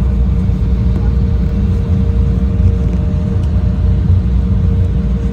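Steady low rumble of an airliner cabin, engines and airflow, with a constant mid-pitched hum running over it.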